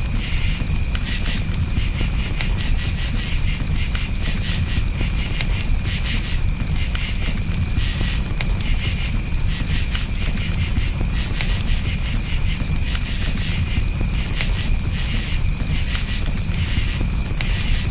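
Crickets chirping in a continuous, rapidly pulsing chorus, over the low rumble and faint crackle of a campfire.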